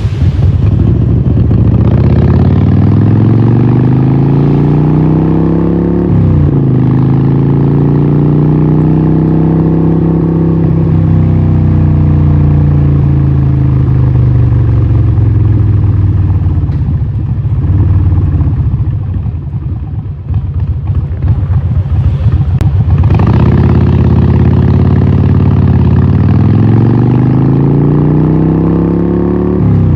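Harley-Davidson 1200 Nightster's Evolution V-twin through a Vance & Hines exhaust, pulling through the gears: the engine note climbs and drops back at each shift, about six and eleven seconds in and again near the end. Around two-thirds of the way through it backs off, with crackling from the exhaust on the overrun, then pulls hard again.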